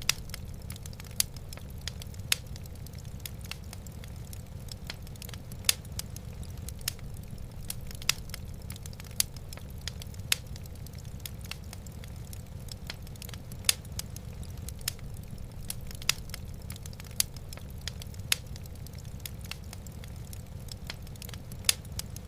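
Wood fire crackling in a fireplace: sharp pops about once a second over a steady low rumble.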